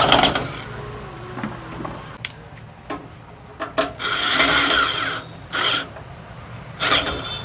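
Hand work on parts inside an opened microwave oven: a few sharp clicks and several scraping, rubbing sounds, the longest starting about four seconds in.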